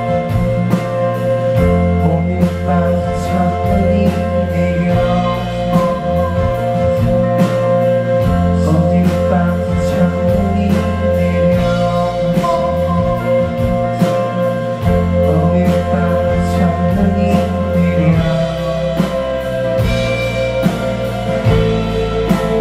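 Live band playing a song, recorded from the audience: a steady drum beat, bass and guitars, with singing.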